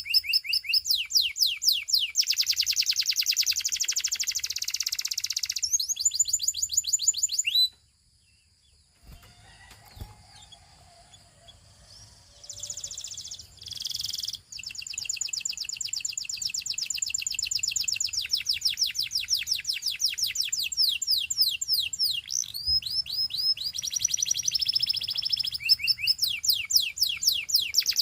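Russian canary singing long trills of fast repeated notes. The song breaks off about eight seconds in, goes nearly quiet for a few seconds, comes back with a couple of short phrases, and then runs on in trills again.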